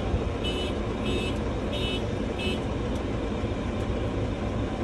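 Tractor engine running steadily while its horn is tooted in four short high beeps, about two every second and a half, in the first half.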